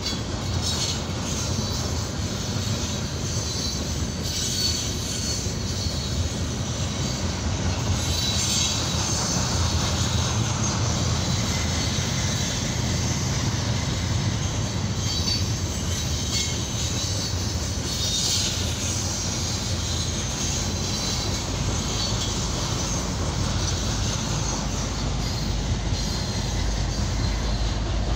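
Freight cars loaded with trash containers rolling past: a steady rumble of steel wheels on rail, with high-pitched wheel squeal coming and going several times. Near the end a deeper diesel locomotive engine starts to come in and grows louder.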